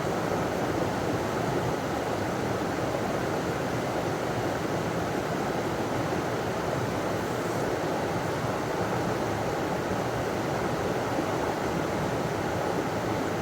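River water running over a small waterfall: a steady, even rushing.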